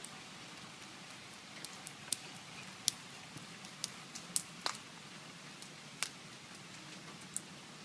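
Light rain falling, with scattered single drops ticking sharply and irregularly on a nearby surface, about a dozen over several seconds.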